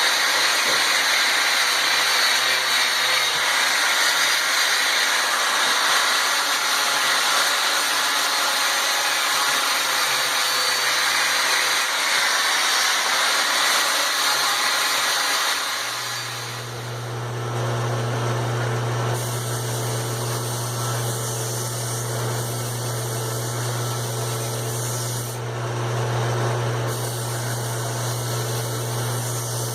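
Power wire wheel scouring a forged steel hammer head, a steady harsh hiss of wire bristles on metal. About sixteen seconds in the sound changes to a steady low motor hum with lighter scratching over it.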